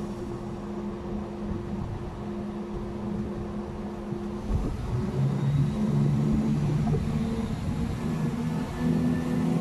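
Multiple-unit passenger train idling at the platform with a steady hum, then pulling away about halfway through, its drive note growing louder and stepping up in pitch as it gathers speed.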